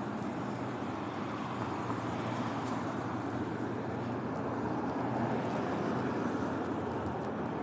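City street traffic noise: a steady rumble of passing cars that swells slightly about five to six seconds in.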